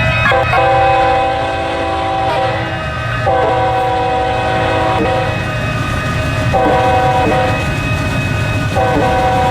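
A locomotive's multi-chime air horn blows long, long, short, long, the grade-crossing signal, over the low rumble of the train running on the rails.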